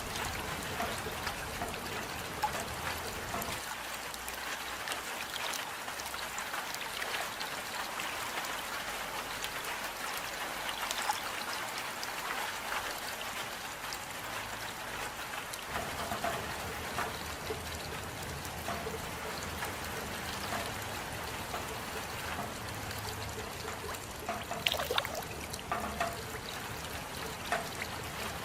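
Steady rain with a trickling patter of many small drops, a few louder drops standing out near the end.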